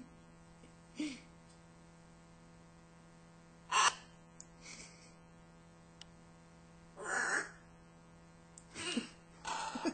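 Pet macaws making a series of short, raspy vocalizations, several brief calls a second or more apart, as they try to answer a request to spell 'bird'.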